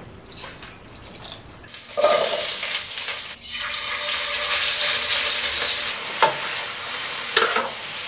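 Food sizzling in hot oil in a wok, starting loud about two seconds in as marinated beef strips go into the pan and running on as the stir-fry is tossed, with a few sharp knocks of the spatula against the pan. The first two seconds are quieter.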